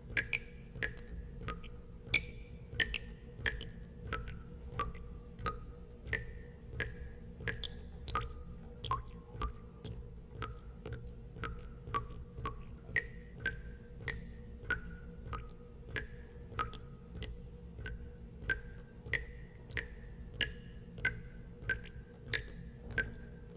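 Water drops plinking into water, about two a second, each drop a sharp click with a short ringing tone whose pitch differs from drop to drop, over a steady low hum.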